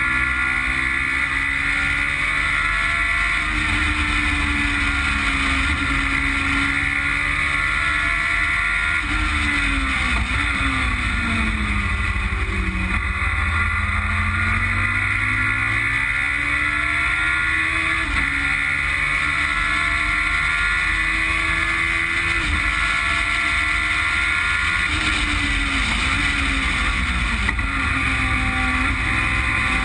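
Westfield Megabusa's Suzuki Hayabusa motorcycle four-cylinder engine running hard on track, its note climbing and falling through the gears. The pitch drops sharply about a third of the way in and again near the end as the car slows for corners. A steady rushing noise runs underneath.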